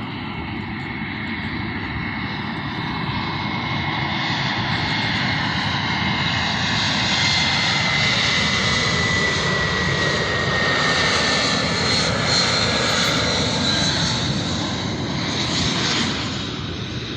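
Jet airliner on landing approach passing low overhead: a broad engine rush that builds over several seconds, holds loud, then starts to fade near the end, with a high engine whine that slowly falls in pitch as it goes by.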